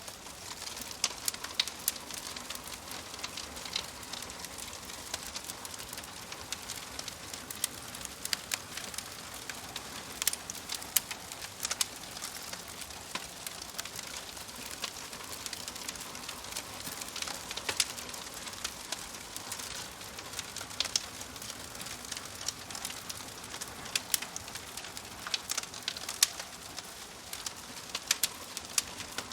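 Wood fire crackling over a steady hiss, with frequent sharp pops and snaps at irregular intervals.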